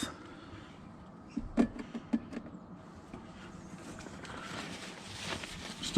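Handling noise from a bottle of white spirit and a cleaning cloth: a few small knocks about one and a half to two seconds in, then a soft rustle that grows louder near the end.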